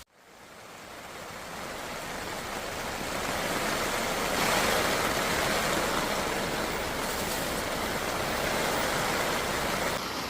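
Steady rush of heavy rain and wind, swelling over the first few seconds and then holding steady.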